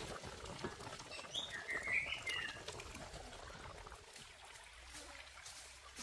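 A short chirping bird call about a second and a half in, over the bubbling of a simmering pot; after about three seconds the bubbling gives way to quieter outdoor background with small clicks.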